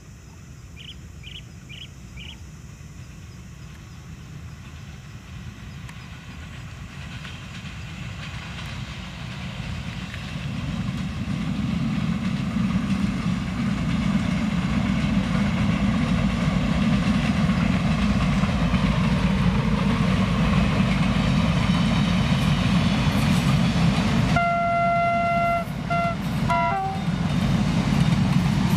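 Vietnam Railways diesel locomotive hauling a freight train, its engine and rolling wheels growing louder as it approaches and then running loud and steady. Near the end it sounds its horn, one longer blast followed by a short one.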